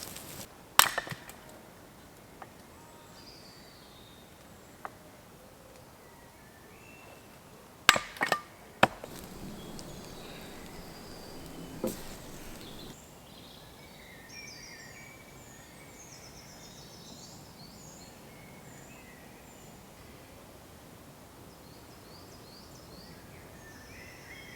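Songbirds chirping in woodland, with a few sharp knocks: one about a second in, three in quick succession about eight seconds in, and another a few seconds later.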